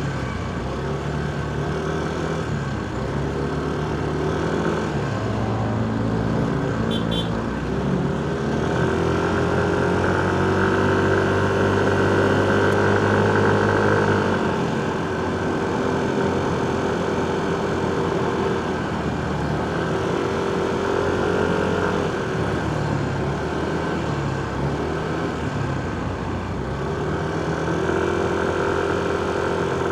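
Motorcycle engine running in stop-and-go riding, its pitch rising and falling with the throttle. It holds a steady higher pitch for several seconds near the middle, the loudest part, then drops back and picks up again twice more.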